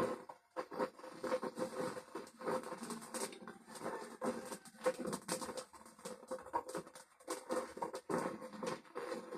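Irregular scratching and scraping with small clicks, going on throughout, over a faint steady hum.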